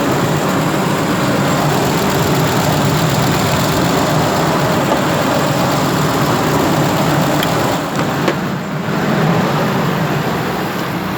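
Ford Triton V8 idling steadily.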